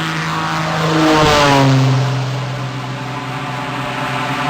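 Cessna 185 Skywagon at takeoff power passing close by: a loud propeller and engine drone that peaks about a second in, its pitch dropping as the plane goes past, then carrying on as a lower steady drone while it climbs away.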